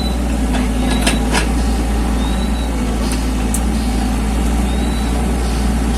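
Mini excavator's diesel engine running steadily, with a few light knocks or clanks from the machine working.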